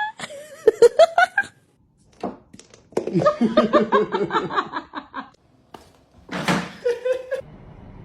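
A person laughing in a quick run of bursts lasting about two seconds, with shorter voice sounds before and after it.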